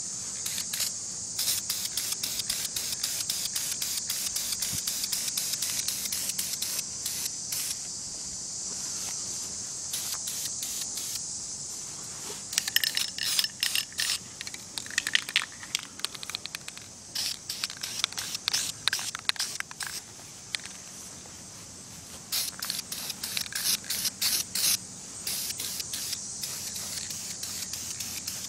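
Aerosol can of Krylon Camouflage Ultra Flat spray paint hissing as light coats go onto an airsoft rifle, first as a longer steady spray and later in shorter bursts, with many sharp crackling clicks throughout.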